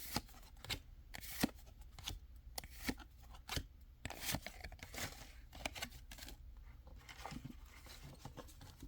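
Pokémon trading card booster packs and cards being handled: a string of short, sharp crackles and snaps from foil wrappers and cards, coming thick at first and thinning out over the last few seconds.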